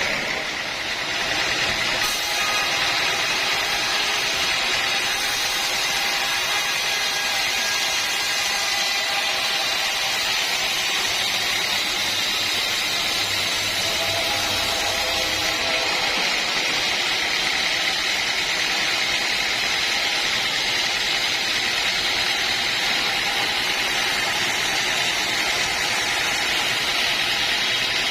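Sawmill saw running steadily through timber: a continuous machine noise with a steady high whine.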